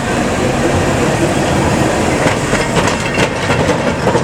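Heritage electric tram running along the track, with a steady rumble and a run of short clicks in the second half as the wheels cross rail joints.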